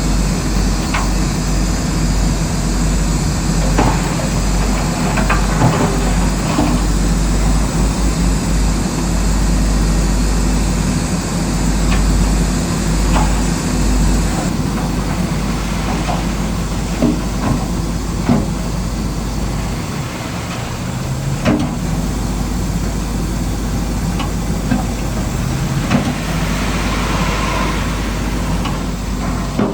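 Radio-controlled model bulldozer at work: a steady motor and gearbox hum with scattered clicks and knocks, and a short rising whine as the motor speeds up about two-thirds of the way in and again near the end.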